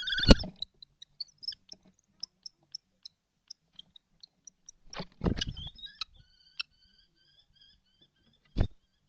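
Kestrel calls: a pitched call with a loud thump at the start, a run of short high chirps, then a quick repeated trilled call about six seconds in. Loud knocks and scrabbling come about five seconds in, and another knock near the end.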